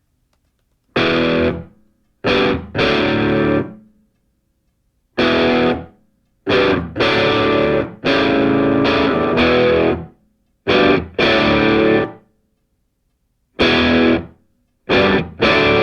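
Distorted electric guitar playing a stop-start riff: chords played in short bursts, each cut off sharply into silence.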